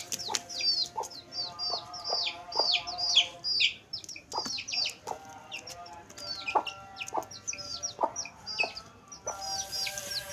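Chicks peeping in many quick, high, falling notes, over the short low clucks of an adult chicken, with scattered sharp clicks.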